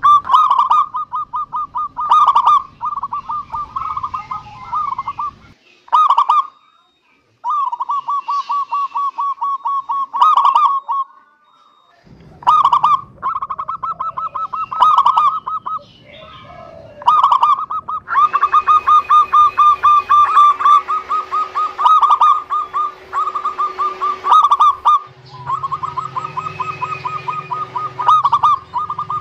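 Zebra doves (perkutut) cooing: loud, repeated phrases of rapid pulsed coos, broken by short pauses.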